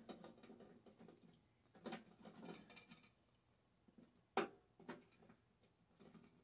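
Faint handling of scrap microwave parts: a few light clicks and knocks, the sharpest about four and a half seconds in, with near silence between them.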